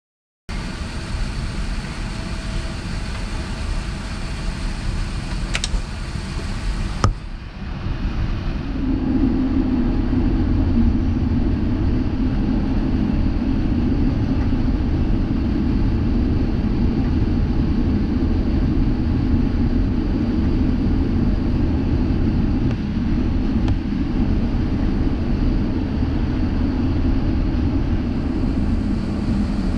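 Airbus A350-900 with Rolls-Royce Trent XWB engines: steady engine and airflow rumble. A click about seven seconds in is followed by a louder, deeper rumble.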